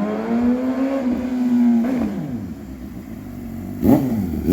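Motorcycle engine running, its pitch rising slowly and holding, then dropping off about two seconds in, followed by two quick throttle blips near the end.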